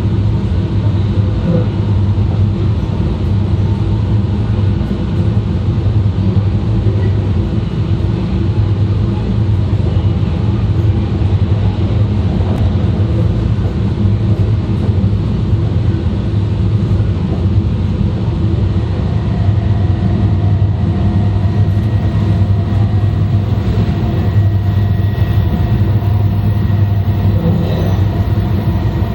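Running noise of an E2 series Shinkansen (Mitsubishi IGBT inverter set) heard from inside the car's vestibule: a steady loud rumble of the train at speed. A faint steady high tone comes in about two-thirds of the way through.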